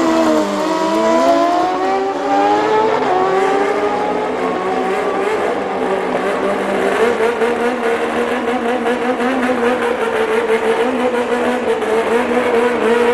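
Drag-racing motorcycle engines at high revs. The pitch dips and climbs over the first few seconds, then holds steady with a fast crackle over it.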